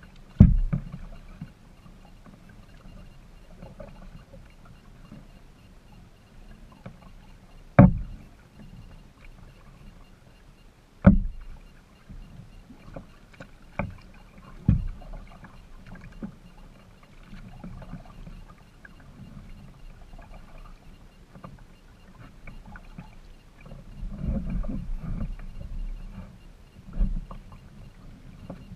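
Kayak out on the water, with quiet paddling sounds and about six sharp knocks spread across the stretch, and a louder low rumble for a couple of seconds near the end.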